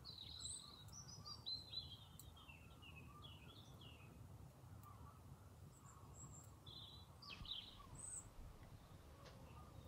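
Faint songbird song outdoors: several short chirping phrases in the first three seconds and again near the end, over a low steady outdoor rumble.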